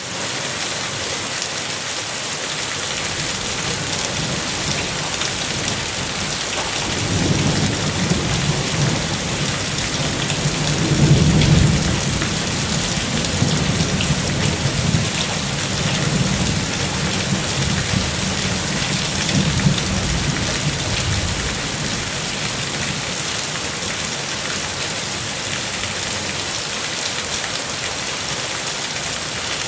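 Steady rain falling on water, with a long low roll of distant thunder from about seven seconds in that swells around eleven seconds and fades out by about twenty-one seconds.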